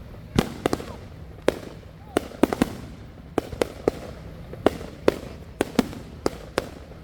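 Backyard fireworks going off: a dozen or more sharp bangs at irregular intervals, a few close together in quick runs.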